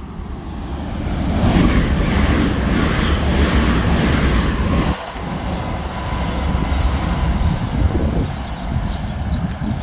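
Train passing by: a loud rush of wheel and rail noise that swells about a second in and carries on, with wind buffeting the microphone.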